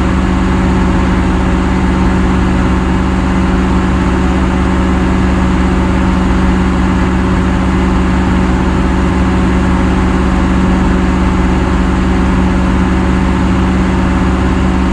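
Loud heavy-equipment diesel engine idling at a steady speed.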